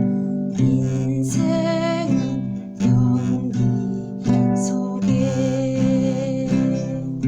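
Acoustic guitar strumming chords in a steady pattern, with a voice singing the melody over it.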